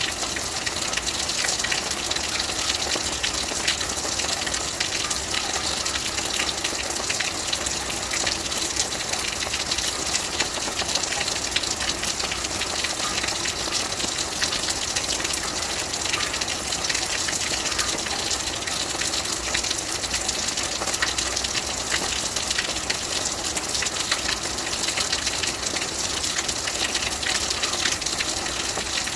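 Steady rain: a dense, even hiss of countless drops, brightest in the high range.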